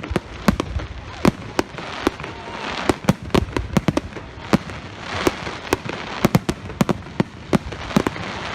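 Fireworks display: dozens of sharp bangs from bursting shells in quick, irregular succession, about three a second, over a continuous noisy rumble.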